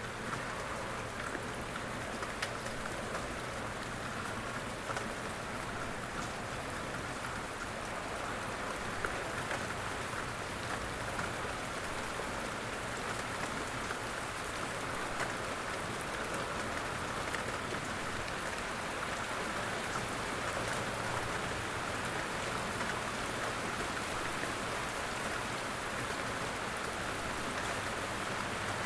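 Steady rain falling, with many small drop impacts on a surface over an even hiss.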